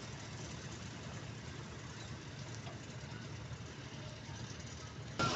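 Mahindra 275 XP Plus tractor's diesel engine running steadily at a low rumble. Just before the end a sudden, much louder sound cuts in.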